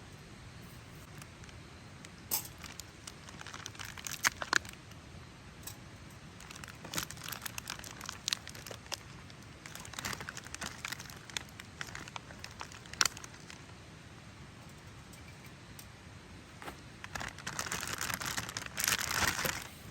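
Cooking gear and packaging being handled: scattered light clicks and crinkling, with a longer run of crinkling near the end.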